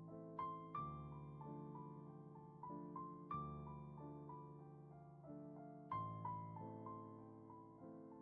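Soft, slow solo piano music: a gentle melody of single notes over sustained low chords, with a new chord struck about every two and a half seconds.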